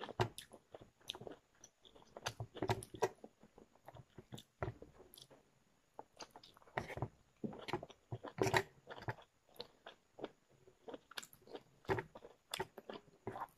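A person chewing and biting food with the mouth close to the microphone: irregular crisp crunches and wet smacking, easing briefly about halfway through.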